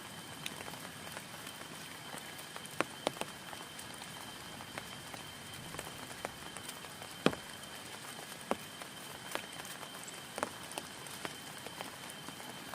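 Rain falling on a tent: a steady patter with scattered sharper drops tapping the fabric, the loudest about seven seconds in.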